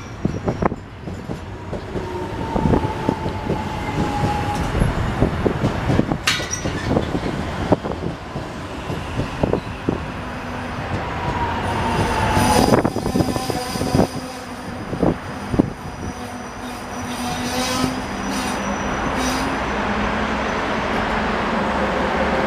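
Line 4 electric subway train moving along the platform, its wheels clacking over rail joints again and again, with high-pitched wheel squeals in the middle of the passage.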